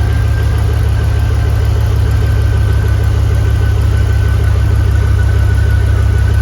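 Pickup truck engine idling steadily, with a thin steady high-pitched whine over the low rumble. It is the first run since the truck's rebuilt 4L60E automatic transmission was filled with fluid and reinstalled.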